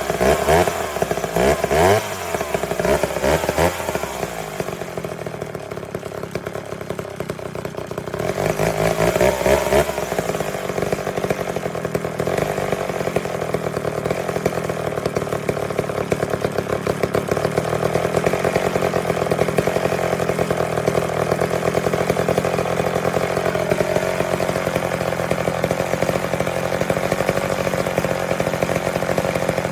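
McCulloch Mac 10-10 two-stroke chainsaw engine running. It is revved up and down and settles lower for a few seconds. From about ten seconds in it runs steadily at speed, with a brief dip in pitch near the end.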